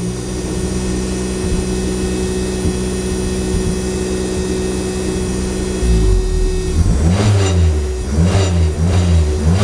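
Lancia Delta engine running on a newly fitted standalone engine management ECU, held at a steady raised speed for about six seconds, then blipped up and down repeatedly. The engine has just started on the new ECU, which still needs tuning.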